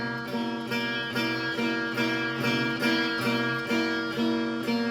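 Strummed guitar music: chords struck in a steady rhythm, about two strums a second.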